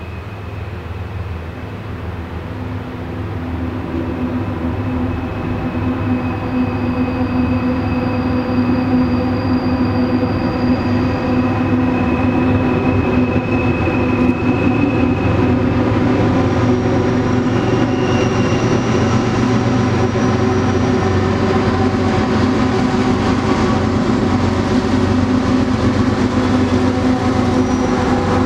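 Canadian Pacific diesel freight train approaching and rolling over a steel trestle bridge: the low drone of the diesel locomotives grows louder over the first several seconds, then holds steady as the covered hopper cars rumble across. Faint thin high squeals come and go.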